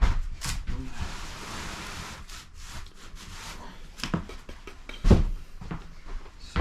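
A carpet being dragged and laid on a floor: a rustling scrape, several knocks, and a heavy thump about five seconds in.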